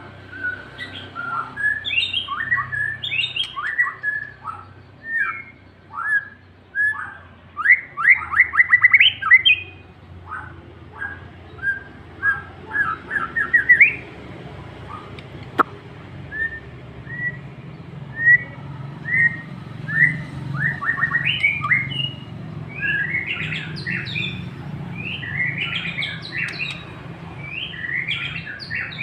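White-rumped shama (murai batu) singing in full voice: a long run of short, fast, varied phrases of clear whistles and quick chattering notes, broken by brief pauses. A single sharp click about halfway through.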